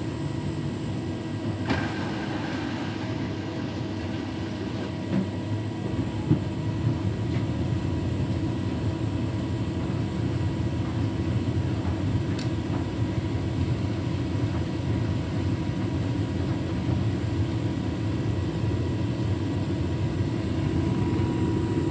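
Beko WTK104121W washing machine running with the drum turning: a steady motor hum and rumble with a few light knocks, growing slightly louder toward the end. The machine is working toward an intermediate spin it has not yet managed on this wash.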